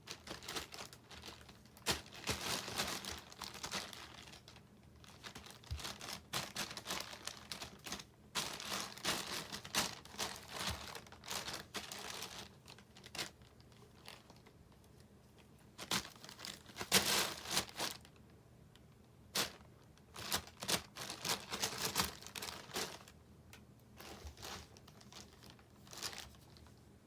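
Crinkly wrapping rustling and crackling in irregular bursts as a cat plays with it.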